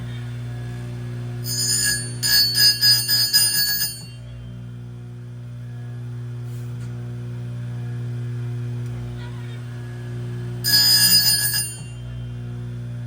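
Oregon 620-120 chain grinder running with a steady low hum, its wheel grinding chainsaw cutter teeth twice: a pulsing, ringing grind of about two and a half seconds starting about a second and a half in, and a shorter one of about a second near the end.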